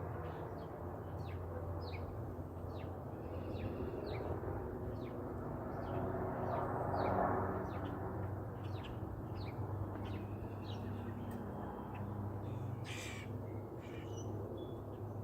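Birds calling over and over, short high calls one after another, over a steady low hum, with one louder call near the end.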